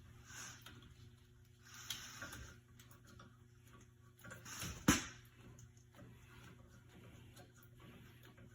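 Faint handling noises during brake work: soft rustling and small ticks, with one sharp metallic click or knock about five seconds in, over a low steady hum.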